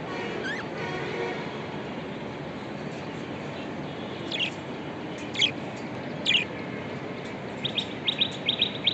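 Budgerigars calling in a cage: three short, sharp falling calls in the middle, then a quick run of high chirps near the end, over a steady background hiss.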